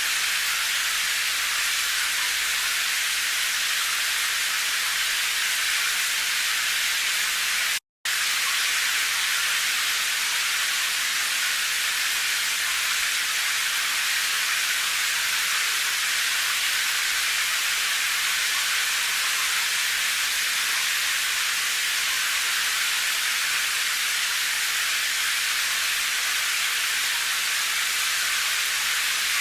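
Steady, even hiss of rain, with no single drops standing out. It cuts out to silence for a moment about eight seconds in.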